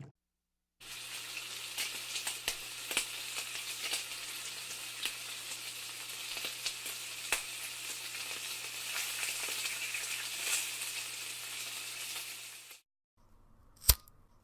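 Food frying in a hot pan: a steady sizzling hiss with scattered crackles and pops, which cuts off abruptly near the end. A single sharp click follows.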